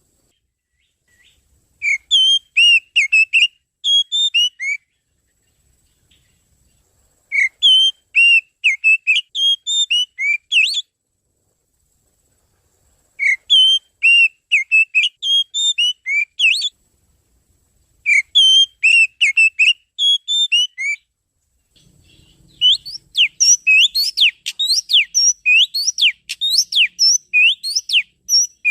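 Oriental magpie-robin (kacer) song. Four phrases of loud, varied whistled notes, each lasting two to four seconds, come with short pauses between them. Near the end comes a longer, faster run of sharp falling whistles.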